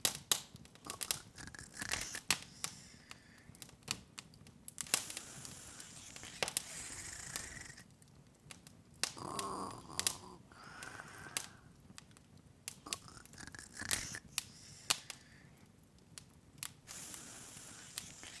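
Open wood fire crackling in a fireplace: irregular sharp pops and snaps over a soft hiss.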